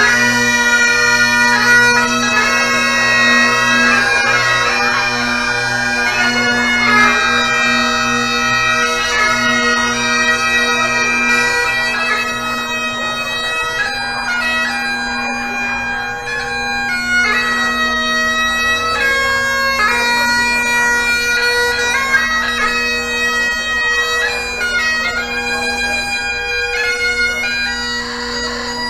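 Bagpipes playing a tune: a melody of shifting notes over a steady, unbroken drone.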